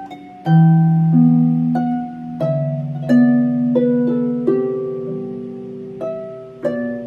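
A plucked string instrument playing a slow, gentle melody: a note or chord is plucked every half second to second, and each one rings on and overlaps the next, with a low bass line beneath.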